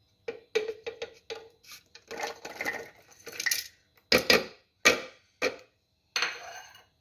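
Kitchen utensils and dishes clattering and scraping in a string of short, irregular knocks as chopped ingredients are tipped and scraped into a blender jar.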